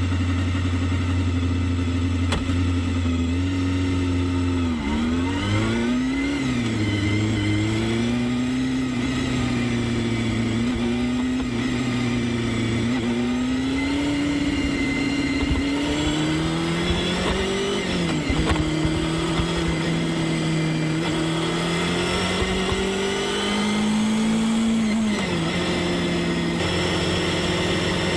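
Honda Hornet 250's inline four-cylinder engine running under way, its note holding steady for long stretches. The revs drop and climb again at gear changes about five seconds in, near the middle and a few seconds before the end.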